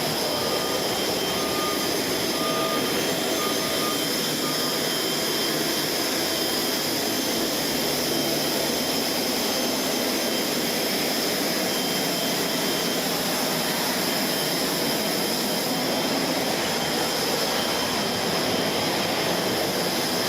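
Steady jet turbine noise: a constant rush with high whining tones that holds level throughout.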